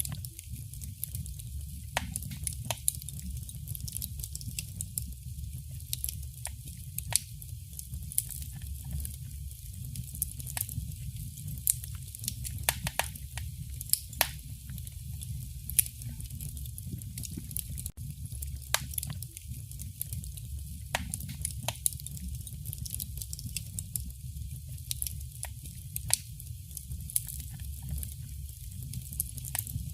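Fire burning in a fireplace: irregular sharp crackles and pops, several a second at times, over a steady low rumble.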